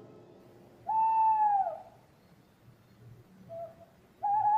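Owl hooting sound effect: two long hoots, the first dropping in pitch as it ends.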